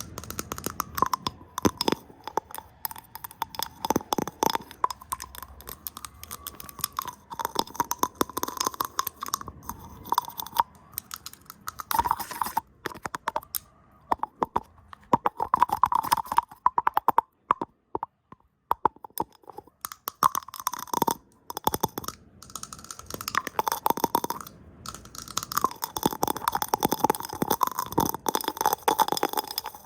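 Fast, irregular ASMR tapping, brushing and hand sounds close on the microphone: a dense stream of clicks, taps and rustling scrapes, pausing briefly a few times.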